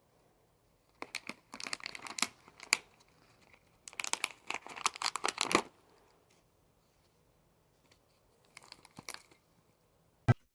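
Crinkling and tearing sounds in three crackling bursts, the middle one the longest, then one sharp click near the end.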